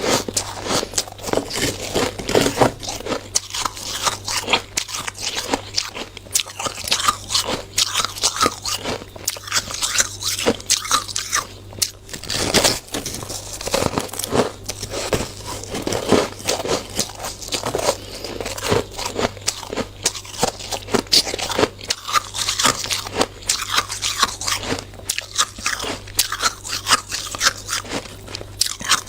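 A person biting and chewing mouthfuls of hard, frosty shaved ice: dense, continuous crunching and crackling.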